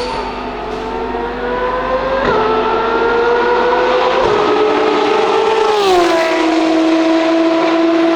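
Ferrari FXX K Evo's V12 race car accelerating hard, its engine note climbing and dropping sharply at two quick upshifts. About six seconds in it passes at its loudest and the pitch sweeps down as it goes by.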